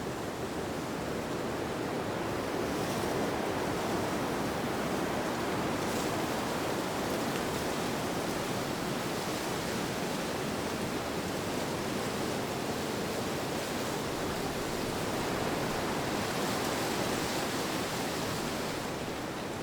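Steady wind sound, an even rushing noise that swells and eases slowly.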